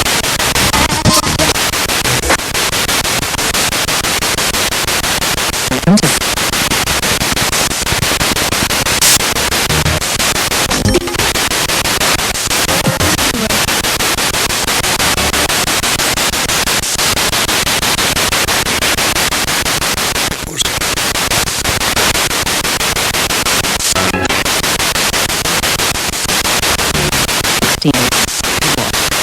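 Spirit box sweeping through radio stations: continuous loud static with brief snatches of broadcast music and voice cutting in and out, broken by short dropouts every few seconds.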